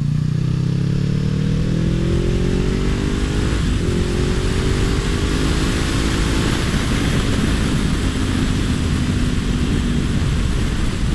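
Honda CBR500R's parallel-twin engine, heard from on board, pulling up through the revs for about six seconds and then holding a steady pitch, under strong wind rush.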